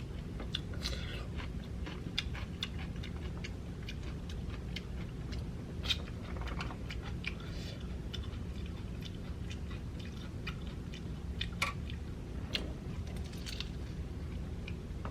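Close-miked chewing and biting into an egg roll: wet mouth clicks and crunches, with a couple of sharper crunches about six and twelve seconds in, over a low steady hum.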